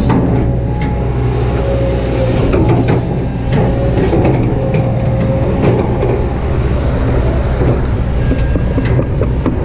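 Kobelco SK200-8 excavator's diesel engine and hydraulics running under working load: a steady low drone with a wavering whine coming and going, and scattered short clicks and knocks.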